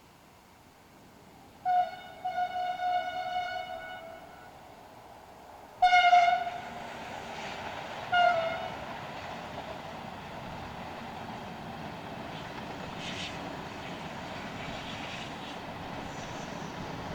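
Train horn sounding: one long blast, then two short blasts, followed by the steady running noise of the train.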